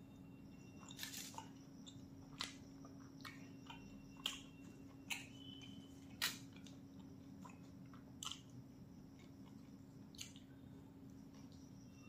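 Close-up chewing of a large stuffed flatbread roll, with a few sharp wet clicks and smacks spaced every second or two.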